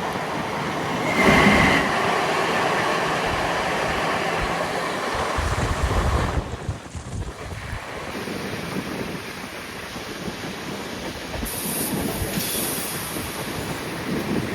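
Passenger train running on the rails, steady wheel and carriage noise, with a brief high wheel squeal about a second in.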